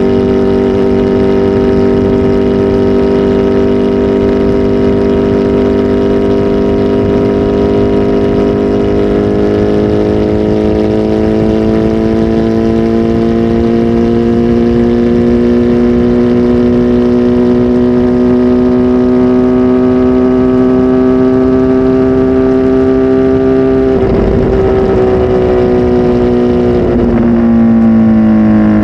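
Kawasaki Z H2 SE's supercharged inline-four running loud through a full aftermarket exhaust, with a flash-tuned ECU. The engine note holds steady, then climbs slowly for about fifteen seconds, breaks roughly a few seconds from the end and falls away as the revs drop.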